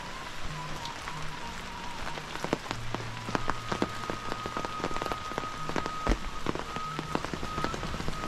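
Steady rain falling, with many heavy drops landing close by; the drops come thicker about two and a half seconds in.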